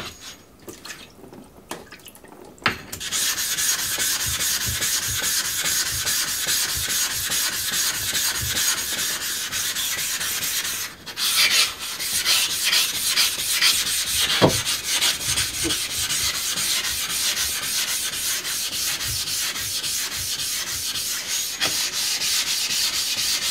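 Fast, steady scrubbing on the surface of a coarse Miyagoshi whetstone as it is cleaned of swarf after sharpening, starting about three seconds in and briefly stopping near the middle.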